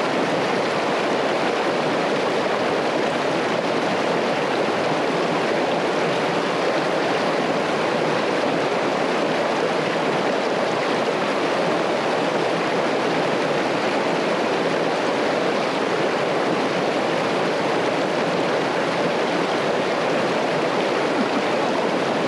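River water rushing over rocks, a steady unbroken rush.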